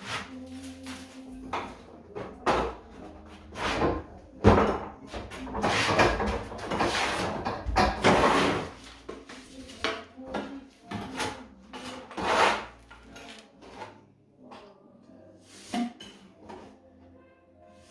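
Irregular scraping and knocking strokes of hand tools working grout into the joints of an old stone wall. Some strokes are short, some drag on for a second or two, and they are densest and loudest through the middle.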